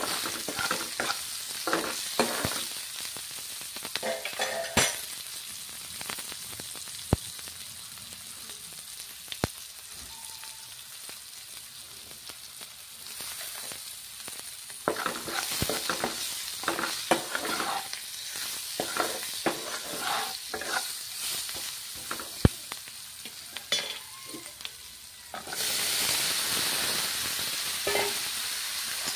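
Sliced onions and dried red chillies sizzling in mustard oil in a wok, with a metal ladle clicking and scraping against the pan as they are stirred. Near the end the sizzle turns suddenly much louder when dhekia (fiddlehead fern) greens go into the hot oil.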